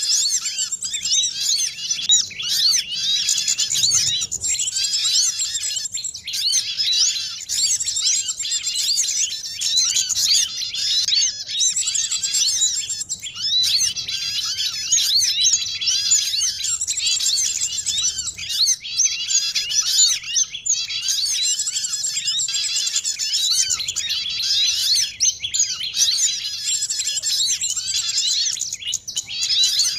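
Dense, unbroken chatter of many small songbirds calling over one another, rapid high chirps and twitters that never pause. It is a layered bird-lure recording, the calls of sunbirds, spiderhunters, white-eyes and prinias mixed to draw small birds in.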